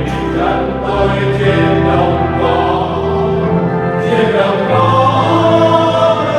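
Church choir singing a Vietnamese Catholic communion hymn, several voices together over held bass notes of an instrumental accompaniment.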